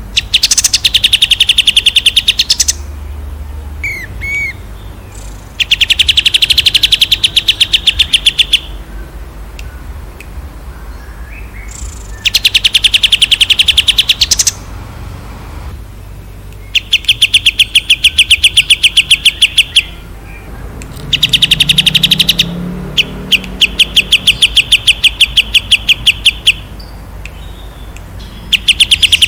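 A songbird singing in loud bursts of rapid, evenly spaced notes, each burst lasting two to three seconds, about six bursts with short pauses between. A few faint short chirps come in between the bursts.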